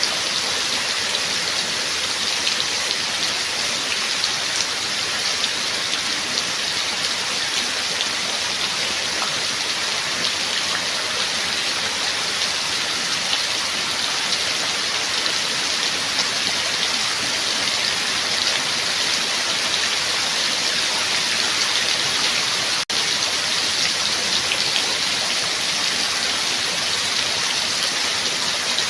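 Steady rain falling in a dense, even patter, cutting out for an instant about three-quarters of the way through.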